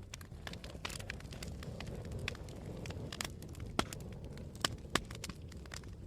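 Wood fire burning and crackling: many small sharp snaps, with a few louder pops near the end, over a low steady rumble.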